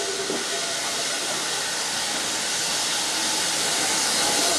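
Steam locomotive letting off steam: a steady hiss that grows slightly louder toward the end.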